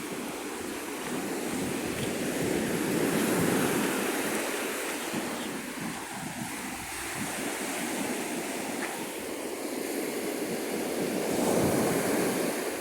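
Steady rushing of wind and surf, swelling and easing every few seconds.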